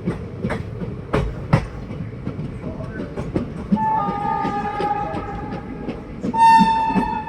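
Train running on the rails with a steady rumble and a few sharp wheel knocks over rail joints, then a locomotive horn sounds twice in long, steady blasts: the first starts a little over halfway in, the second is louder and starts near the end.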